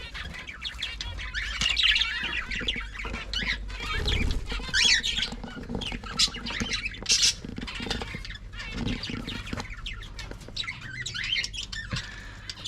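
Pet budgies, finches and small parrots chirping and squawking: many short overlapping calls, with several louder, sharper squawks scattered through.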